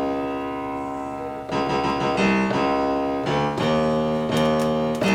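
Piano-like keyboard instrument played from Maschine Studio pads in keyboard mode: a held chord fades out, then a run of new notes and chords starts about a second and a half in.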